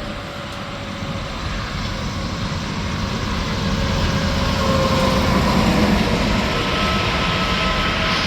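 Interstate highway traffic: a tractor-trailer approaching, its tyre roar and engine growing steadily louder.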